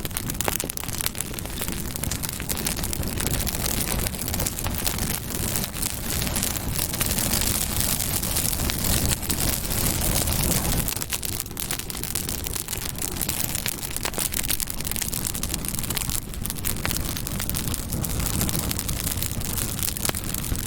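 Campfire burning with a steady rush of flame and frequent sharp crackles and pops of burning wood, swelling a little about halfway through.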